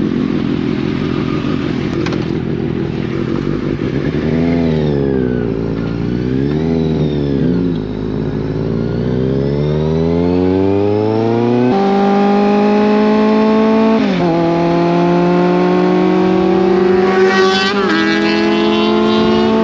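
Kawasaki inline-four sport motorcycle engine with an aftermarket exhaust being revved: the revs swing slowly down and up, then jump to a higher held pitch about halfway through, dip once sharply and climb slowly toward the end.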